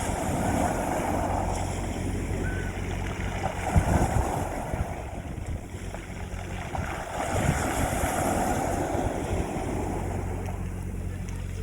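Sea waves washing onto a beach, surging three times a few seconds apart, over a steady low hum.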